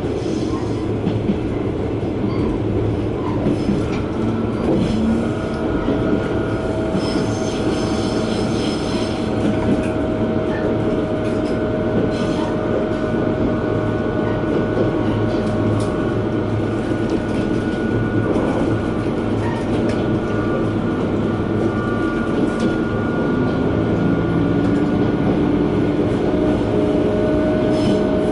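KiHa 120 diesel railcar running along the line, heard from inside the car: a steady rumble of engine and wheels with a whine that sets in about five seconds in, and wheels clicking over rail joints now and then.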